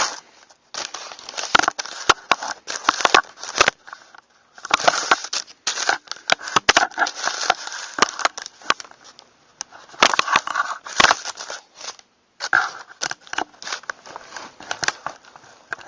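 Handling noise from a Maverick 88 pump-action shotgun and its parts: clicks, clacks and rustling in bursts of a few seconds, with two short pauses.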